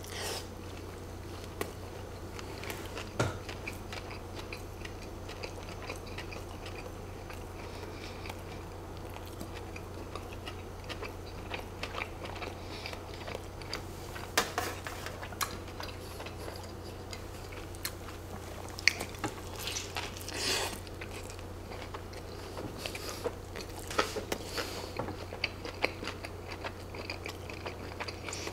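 Close-miked eating of a double cheeseburger: biting into the soft bun, then continuous wet chewing with lip smacks, and scattered louder clicks and crunches.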